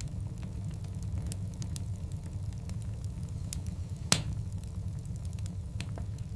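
Wood fire of burning logs crackling over a steady low rumble, with scattered sharp snaps and one loud pop about four seconds in.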